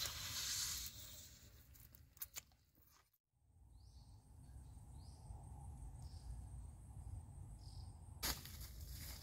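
Crunchy biting and chewing on crisp roasted snake skin for about the first three seconds, fading out. After a brief drop to silence comes quiet outdoor ambience: a low rumble, a faint steady high-pitched whine and a few short high chirps. Louder rustling noise starts near the end.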